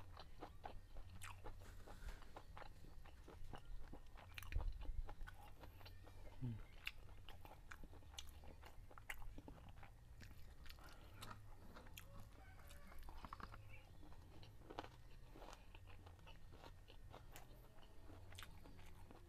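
A man chewing with his mouth close to a clip-on microphone, many small wet clicks and crunches as he eats a mouthful of rice and stir-fried chicken gizzard.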